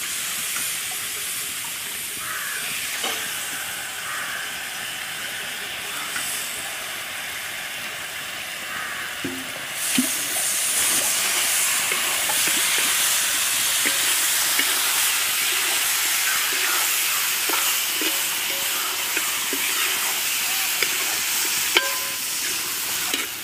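Chicken frying in a spiced onion-tomato masala in a pan: a steady sizzle with short clicks and scrapes from stirring. About ten seconds in, the sizzle grows louder and brighter.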